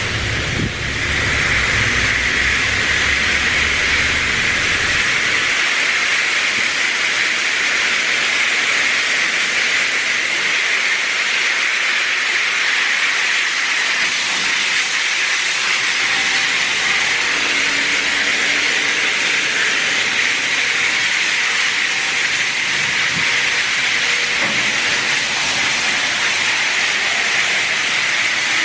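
Washworld High Velocity touchless car wash arm spraying high-pressure water onto a car: a steady, loud hiss that sets in about a second in. A low rumble underneath stops about five seconds in.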